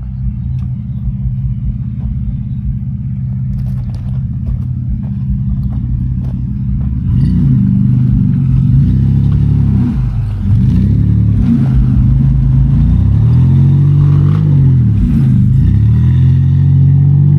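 Off-road vehicle engine working through a rough trail crossing. For about seven seconds it rumbles steadily with scattered knocks and clatter, then it gets louder and revs up and down again and again as it climbs through.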